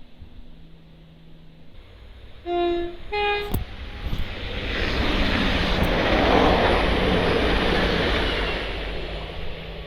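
Train sounding two short horn notes, a lower one then a higher one, then passing by with a rush of wheel and rail noise that swells and fades away.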